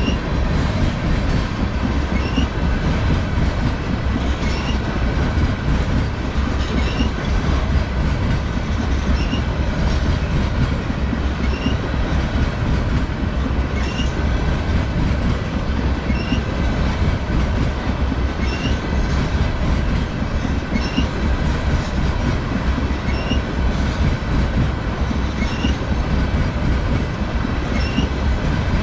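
Freight train tank cars rolling past: a steady rumble of steel wheels on rail, with a short click about every two seconds as each car goes by.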